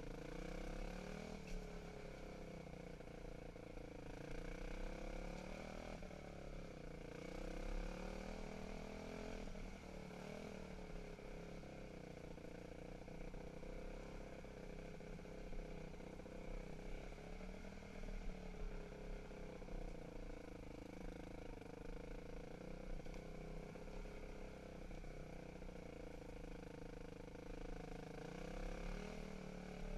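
Dirt bike engine running while being ridden on a trail, its pitch rising and falling every few seconds with the throttle, over a steady rushing noise.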